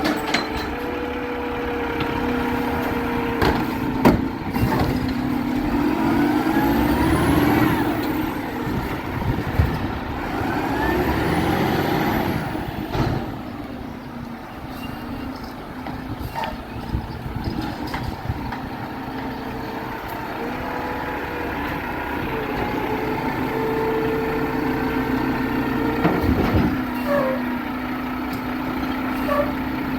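Garbage truck running, its engine note rising and falling, with a steady whining tone and sharp knocks, one about four seconds in and another near the end.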